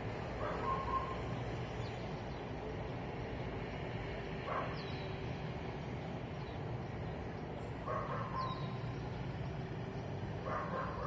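Dogs barking a few times, in short bouts spread across several seconds, over a steady hum of road traffic. Faint short bird chirps come through now and then.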